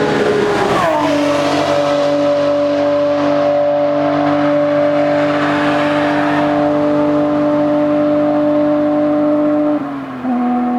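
BMW E36 M3's Euro S50B32 3.2-litre straight-six, breathing through individual throttle bodies and a Supersprint Race exhaust, pulling at speed. Its note falls sharply in pitch about a second in, then holds a steady drone; near the end it dips briefly and settles a little lower.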